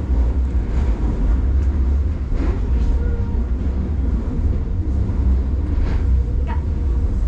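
Steady low rumble inside a Tobu Railway local commuter train carriage, with a few faint brief sounds over it.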